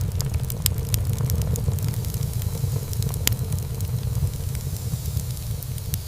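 Wood fire burning in a fireplace: a steady low rumble of flames with frequent small crackles and pops, one louder pop a little past halfway.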